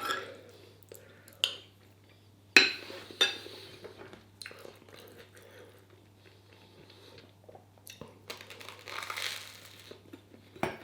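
Cutlery clinking and scraping against a plate while eating: a few sharp clinks in the first few seconds, then quieter scraping.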